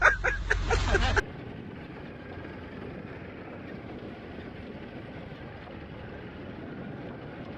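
Steady noise of a vehicle in motion, an even hum with no distinct events. About a second in, men's voices over a loud low hum cut off abruptly as this sound begins.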